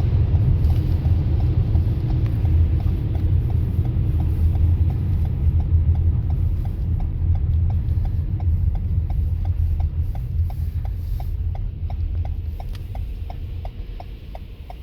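Car running along the road with a steady low rumble, overlaid by an even ticking of about three clicks a second, like a turn-signal indicator. The rumble drops off near the end.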